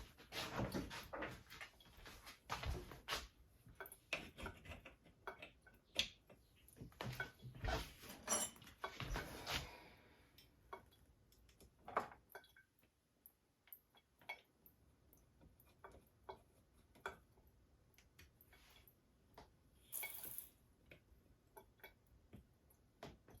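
Scattered clinks, taps and knocks of small hard objects being handled, uneven and faint, with a short hissing rush about twenty seconds in.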